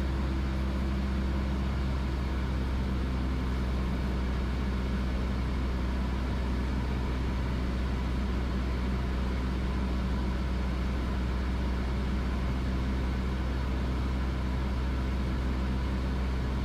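Steady drone of a Cessna 172S Skyhawk's four-cylinder Lycoming engine and propeller in flight, heard from inside the cockpit: a constant low hum with a noise haze above it, unchanged in pitch and loudness.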